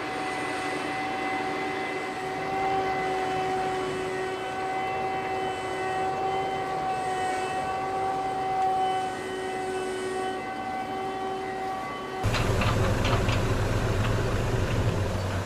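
Heavy farm machinery running with a steady whine of several held tones. A little after twelve seconds it cuts abruptly to a deeper engine rumble with some clattering.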